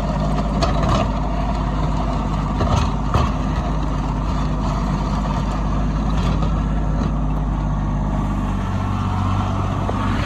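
Kubota B2601 compact tractor's three-cylinder diesel engine running steadily while plowing snow, with a few short knocks and clatter. Its note changes about eight and a half seconds in.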